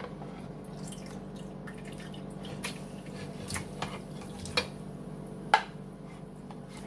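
A spoon clinking against the slow cooker crock while chicken and potatoes are spooned back into the gravy, with wet dripping. There are a handful of separate taps over a steady low hum, the loudest a little over five seconds in.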